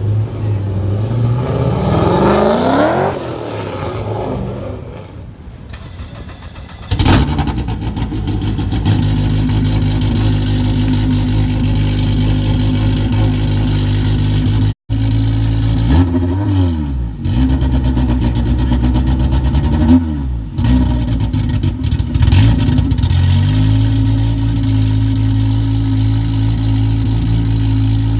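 A car engine revs up as the car drives past. A loud engine then idles steadily, with a couple of quick revs partway through.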